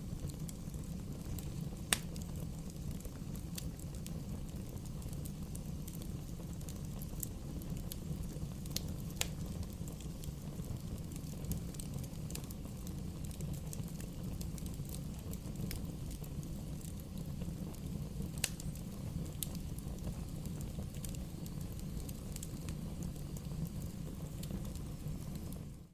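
Wood fire burning, a steady low rumble with scattered sharp pops and crackles every few seconds.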